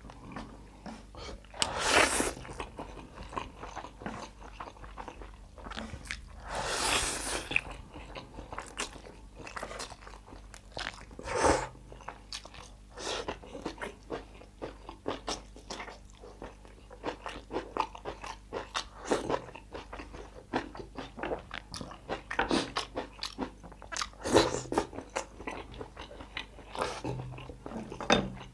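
Close-miked eating: a person biting and chewing crunchy food with chopsticks-fed mouthfuls, many quick wet clicks and crunches, broken by a few louder, longer bursts.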